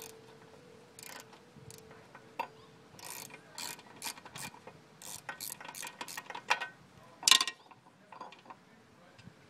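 Ratchet wrench clicking in short, irregular bursts as a bolt is worked loose, with one louder metallic clank a little past seven seconds in.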